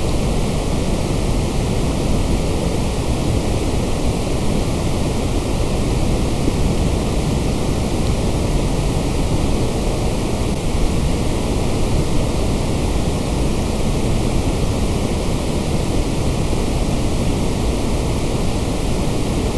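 Continuous white noise, a steady, unchanging hiss heavier in the low end than the highs.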